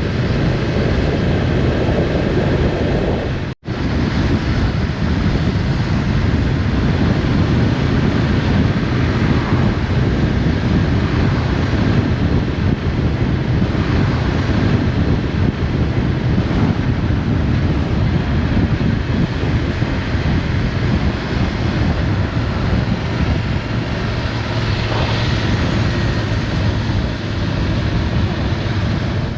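Motorcycle on the move: engine running under a steady rush of wind on the microphone. The sound cuts out for an instant about three and a half seconds in.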